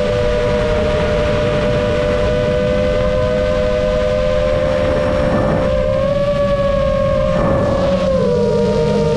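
7-inch FPV quadcopter's motors and propellers whining in flight: a steady high hum of several tones over a rush of wind and prop wash, its pitch wavering with throttle changes about eight seconds in.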